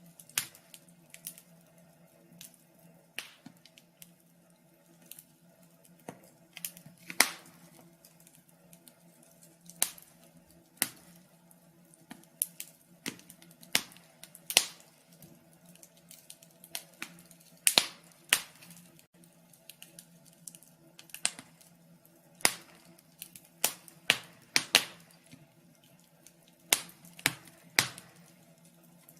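Fire crackling: irregular sharp pops and snaps, a few loud ones among many faint ticks, over a faint steady low hum.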